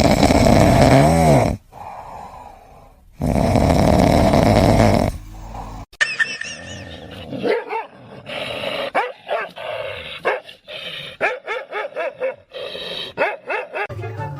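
A dog growling in two long, loud bursts, then a run of short yips and barks.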